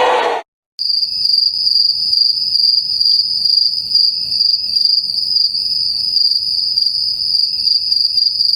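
Crickets chirping in a steady, high, pulsing trill, starting just under a second in after a short silent gap. Before the gap, the tail of a crowd cheering cuts off abruptly.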